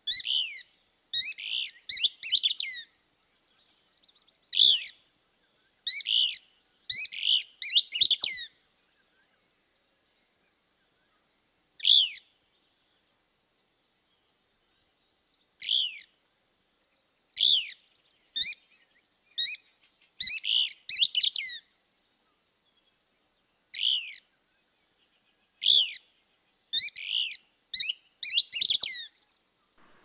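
A bird calling in short chirps that drop in pitch, one at a time or in quick runs of two to four, with quiet gaps of up to a few seconds between them. A faint, steady high tone runs behind.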